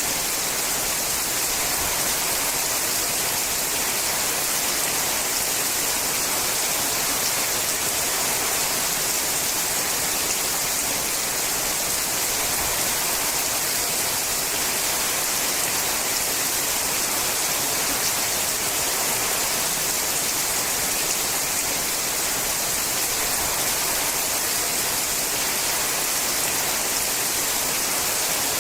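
Steady rain falling on a sheet-metal roof, a dense even hiss with no breaks or changes.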